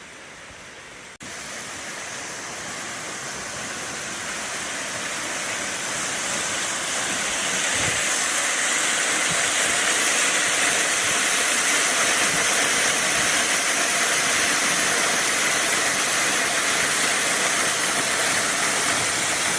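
Small waterfall running high after heavy rain, a steady rush of falling water that grows louder over the first several seconds.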